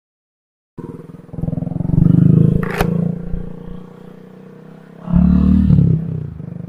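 Motorcycle engine running on the move, starting about a second in, with two louder stretches and a sharp click a little before the middle.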